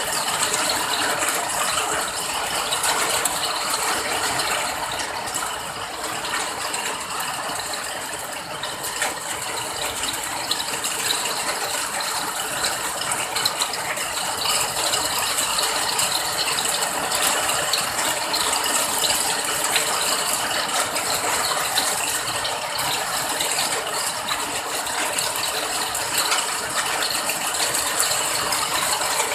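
Steady rain, a dense crackling patter of many drops.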